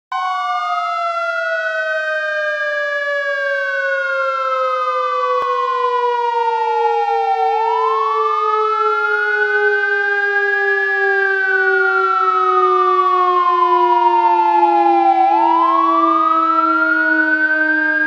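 Siren wailing slowly, rising for about three seconds and falling for about four, three times over. Beneath it a second low tone slides steadily downward, with a set of steady high tones above.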